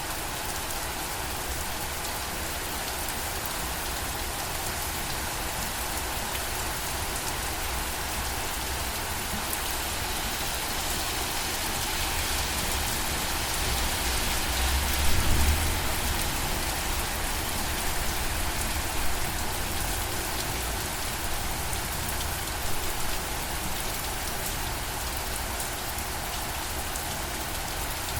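Steady rain falling, a dense even hiss of drops on surfaces, swelling heavier about halfway through with a brief low rumble.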